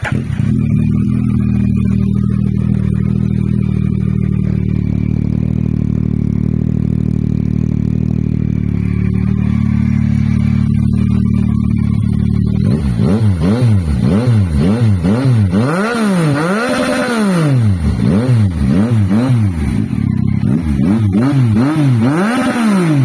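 Yamaha MT-09's 890 cc inline-three engine idling steadily through its exhaust, then about twelve seconds in revved repeatedly in quick throttle blips, the pitch rising and falling with each.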